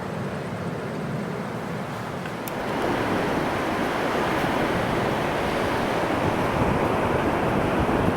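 Sea surf washing on a beach with wind on the microphone, a steady rushing that swells louder about two and a half seconds in.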